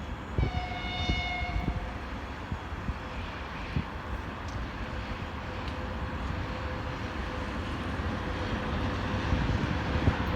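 Twin-unit VL80S electric locomotive hauling a freight train as it approaches, with a steady low rumble. A short high tone sounds about half a second in and lasts just over a second. After it a thin steady hum sets in.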